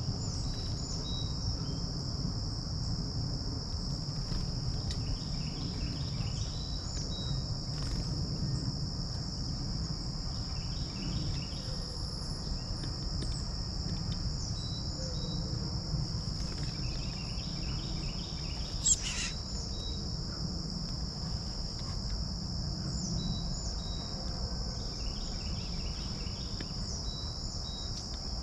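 Steady high-pitched insect chorus, with short bird song phrases repeating every few seconds and scattered chirps over a low breeze rumble. A single sharp click just before two-thirds of the way through is the loudest sound.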